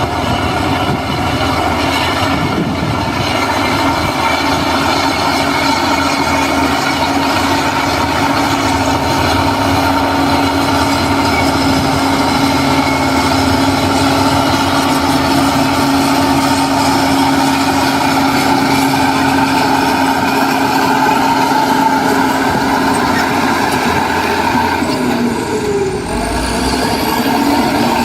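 Heavy diesel construction machinery running steadily, with a steady pitched whine over the engine. Near the end the sound dips briefly and then carries on.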